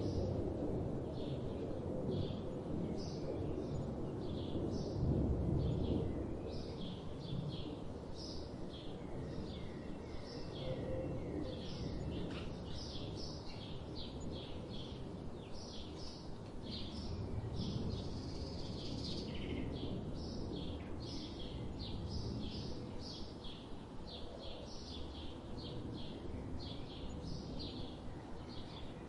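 Birds chirping, many short calls in quick succession throughout, over a low rumbling background noise that is strongest in the first few seconds.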